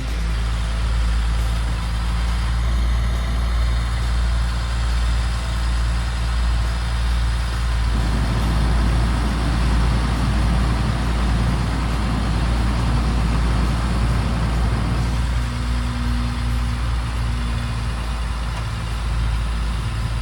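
MTVR military truck's diesel engine running steadily. About eight seconds in a rougher, rattling layer joins it, and a steady higher tone rises above the engine a little after the middle.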